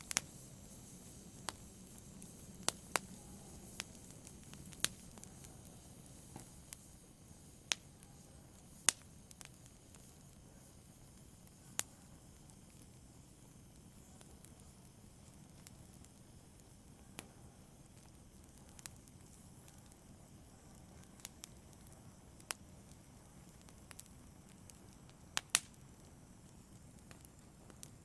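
Fire burning in a fireplace: a steady soft hiss under irregular sharp crackles and pops. The pops come less often through the middle, and a close pair of loud pops comes near the end.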